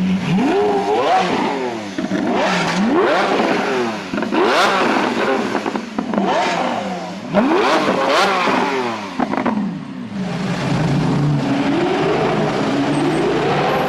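Lamborghini Aventador V12 engine revved hard again and again in quick rising blips, with sharp exhaust pops and crackles as the revs drop. About ten seconds in it settles to a steadier note, then climbs slowly again near the end.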